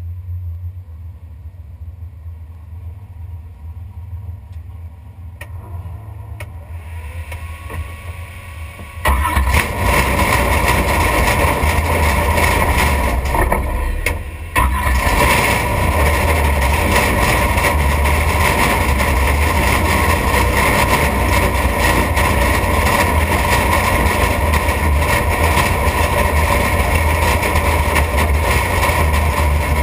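Drag car's engine starting about nine seconds in, after a stretch of low rumble, then running loud and steady at idle inside the stripped cabin, with a brief drop in level around fourteen seconds.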